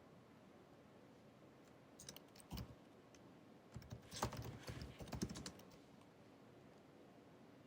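Built-in scissor-switch keyboard of a 2019 16-inch MacBook Pro being typed on: a few keystrokes about two seconds in, then a short quick run of keystrokes a second later, with quiet between the bursts.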